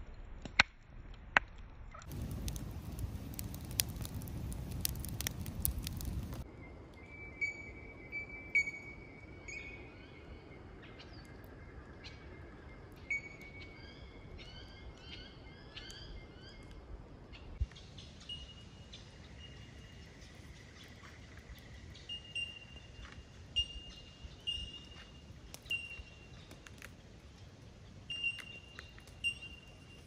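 Two sharp clicks, then a few seconds of noise, then birds calling: short repeated chirps and whistled notes with scattered clicks between them.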